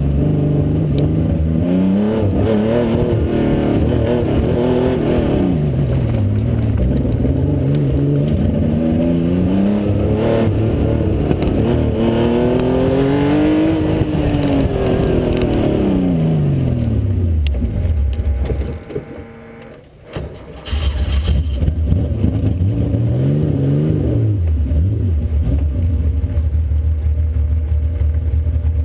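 Car engine revving up and down over and over as the car accelerates and slows between cones, heard close up over the open engine bay. About two-thirds in the engine sound falls away for a second or two, then it runs steadily at low revs with one short rev.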